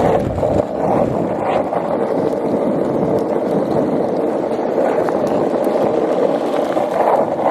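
Skateboard wheels rolling fast on pavement, a steady rumble with a few sharp clicks as the board crosses cracks.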